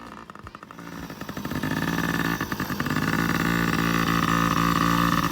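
Small kids' dirt bike engine revving up about a second in, then running at steady, higher revs as the bike pulls away.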